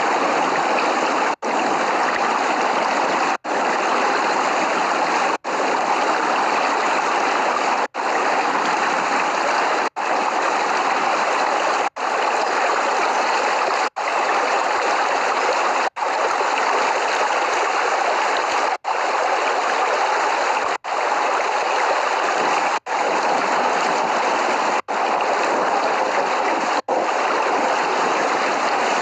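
Steady rain falling, with no thunder. The sound cuts out for an instant about every two seconds, as in a short looped recording.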